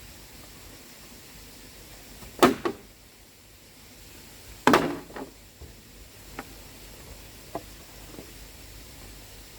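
Two loud, sharp knocks about two seconds apart, each with a brief ringing tail, followed by a few lighter taps.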